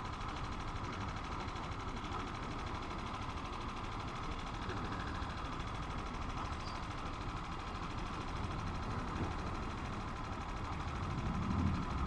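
Italika 250 motorcycle engine running in traffic, under steady road and wind noise, with the low rumble swelling briefly near the end.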